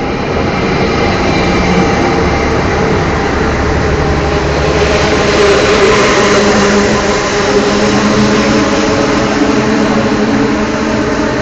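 A passenger train pulling into the platform: a loud, steady running hum with several held tones, growing louder over the first couple of seconds and then holding.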